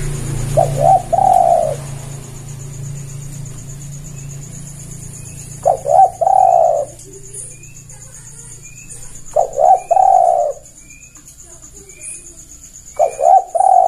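Spotted dove (tekukur) cooing: four calls a few seconds apart, each two quick notes followed by a longer rolling coo. A small bird chirps faintly and regularly in the background.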